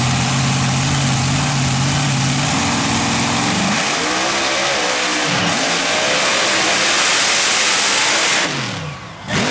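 Mud-racing truck's engine holding a steady high rev, then revving hard up and down over a loud rush during its run through the mud pit, cutting off abruptly near the end.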